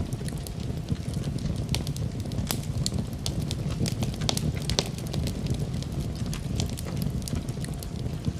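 Wood fire in a fireplace crackling: many irregular sharp pops and snaps over a steady low rumble of the burning.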